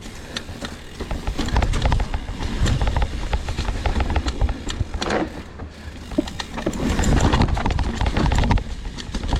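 Mountain bike riding down a rocky trail section, its tyres and frame clattering over rocks in dense, irregular knocks over a heavy low rumble.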